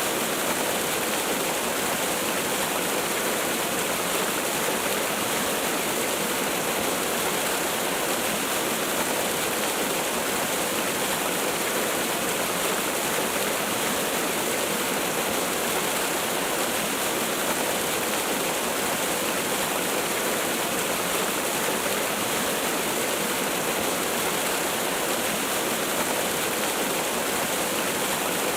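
Waterfall: steady rushing hiss of falling water, with little deep rumble.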